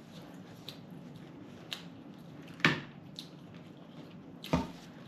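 Eating sounds at a dinner table: faint clicks and smacks of chewing, with two louder knocks, a little under three seconds in and again near the end.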